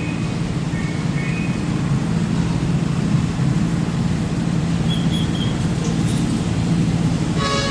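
Truck engine running with a steady low drone, with road noise from the moving vehicle.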